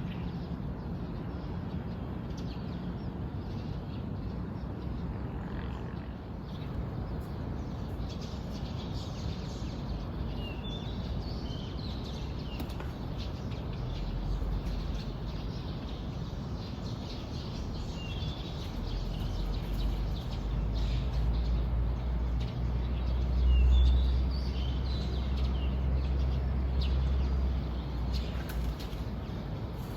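Small birds chirping in short scattered calls over outdoor morning ambience. A low rumble comes in about halfway through and grows louder.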